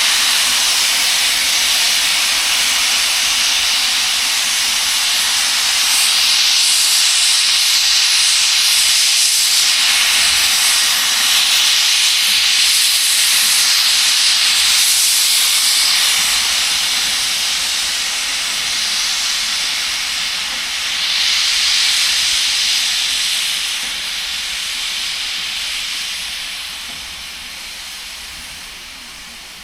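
Class 01 express steam locomotive venting steam: a loud, steady hiss that swells in surges and dies away over the last few seconds.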